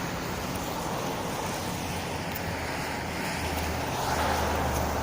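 Wind blowing across the phone's microphone, a steady rushing rumble that swells somewhat a few seconds in.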